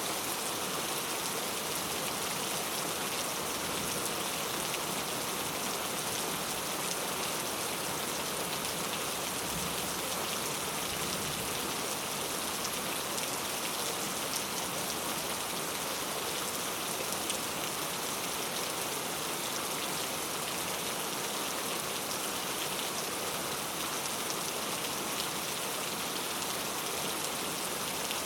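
Steady, even rainfall with many fine drops pattering on a surface.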